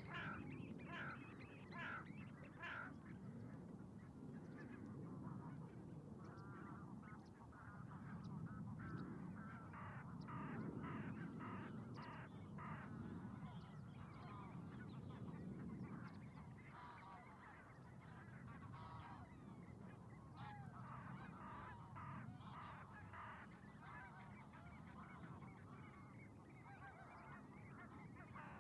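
A flock of waterbirds calling, with many short honking calls in quick succession over a low, steady background rumble. The sound is faint throughout.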